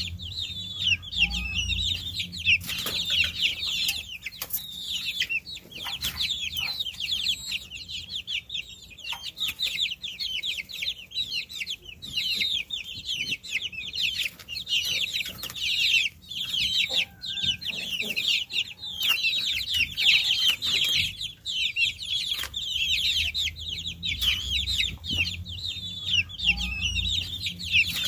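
Many baby chicks peeping without pause: dense, overlapping high chirps, with occasional short taps and a low hum underneath.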